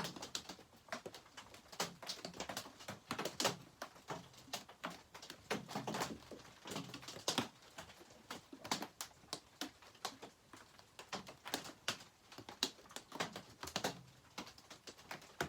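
Irregular small clicks and clinks of hand tools and small metal parts being handled while unbolting a chainsaw's oil pump.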